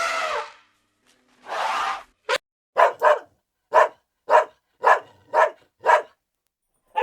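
A dog barking, about eight short barks in quick succession, preceded by two longer drawn-out animal calls.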